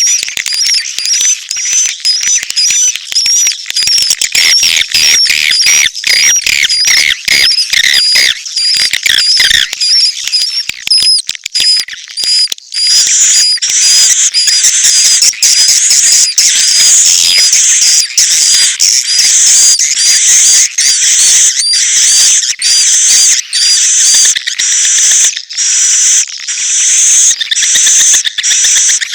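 Swiftlet lure call: dense, rapid chirping and twittering of swiftlets, a mix of mating calls and chick calls, playing without a break. From about four to ten seconds in, a lower run of chirps sits under the high twittering.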